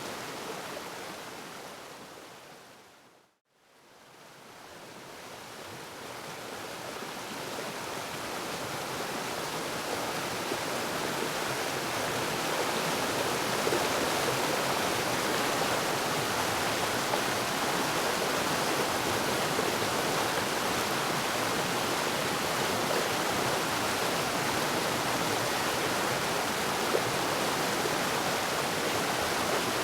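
Waterfall rushing steadily. About three seconds in it fades out to a moment of silence, then slowly fades back up over the next eight seconds or so.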